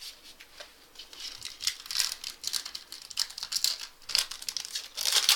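Plastic wrapper of a trading card pack being torn open and crinkled in the hands, in irregular crackles, with the loudest burst near the end.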